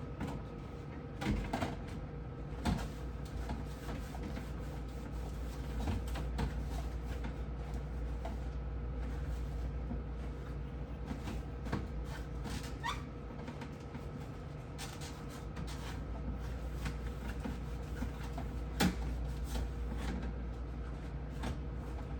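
Scattered knocks, clicks and light clatter of shelves, drawers and items being handled inside a refrigerator being cleaned, over a steady low hum.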